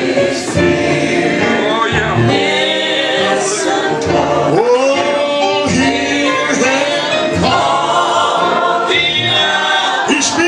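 Congregation singing a gospel invitation hymn, many voices together with instrumental accompaniment.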